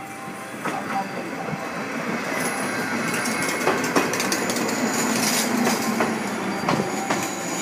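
JR West 105 series electric train pulling into the platform, its running noise growing louder as it nears. Its wheels click over rail joints in pairs, and a thin high squeal is heard from the wheels and brakes as it slows to stop.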